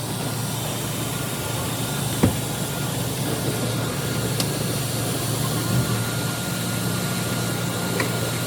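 Ford F-350 pickup engine idling: a steady low hum with a faint constant whine above it and one short click about two seconds in.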